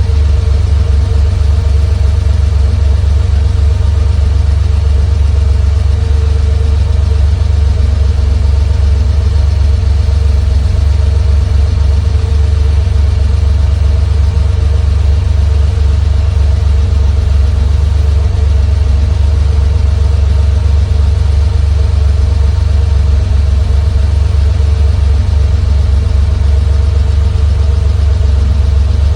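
Air-cooled 3.2-litre flat-six engine of a 1973 Porsche 911T idling steadily, warmed up after a drive.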